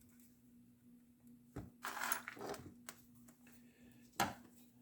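A few light metallic clicks and clinks of small hardware being handled as a nylock nut is fitted onto a bolt, the sharpest about four seconds in, over a faint steady hum.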